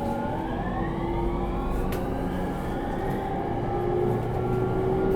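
E231 series electric train's Hitachi IGBT VVVF inverter and traction motors under power, heard inside the car: several whining tones rise steadily in pitch as the train picks up speed, over a steady motor hum and running noise.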